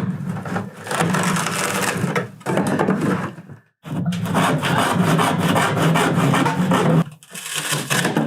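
A power saw cutting through a boat's rotten, wet wooden floor, running steadily in two long stretches with a short stop about three and a half seconds in, then cutting off about seven seconds in.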